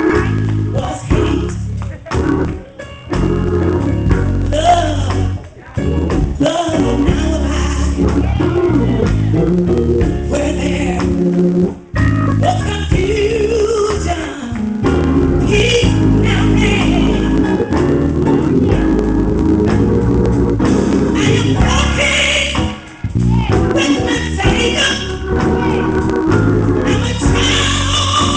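Gospel music: a singer with instrumental accompaniment that includes organ.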